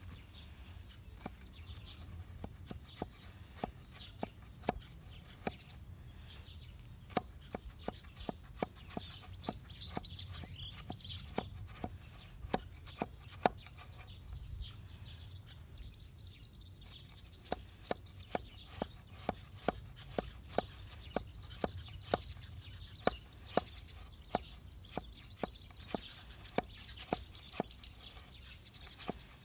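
Repeated sharp strikes on wood, about one or two a second with a short lull midway, typical of chopping into or knocking on resin-hardened fatwood. A faint steady high hiss runs under the strikes from about a third of the way in.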